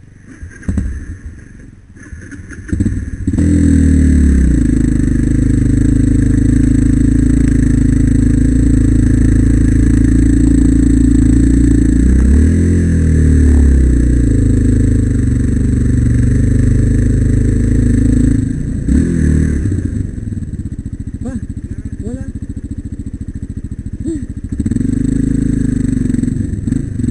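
Single-cylinder four-stroke trail motorcycle engine, loud from about three seconds in and held at steady revs. The pitch dips and climbs once around the middle, the engine gets quieter about two-thirds of the way through, and it grows louder again near the end.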